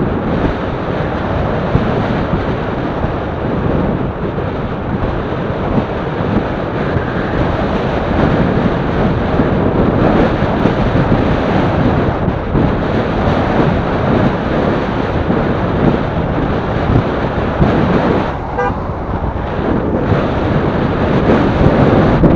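Loud wind noise buffeting the microphone on a moving recumbent bicycle, a steady rumble that eases for about a second near the end.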